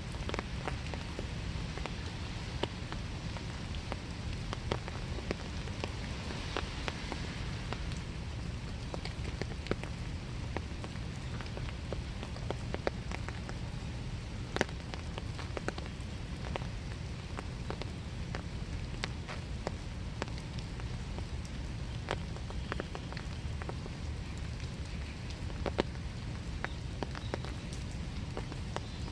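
Steady winter rain falling in a small wood, a constant hiss with many separate drips and drop taps scattered throughout.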